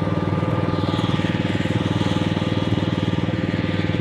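Small engine of a ride-on vehicle running steadily at an even speed, with a fast, regular pulsing beat.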